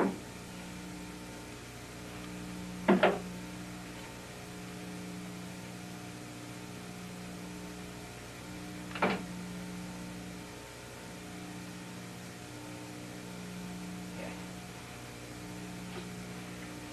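Staple gun firing as it fastens cotton bias tape to the canoe's ribs: two quick loud shots about three seconds in, another about nine seconds in, and fainter clicks later, over a steady electrical mains hum.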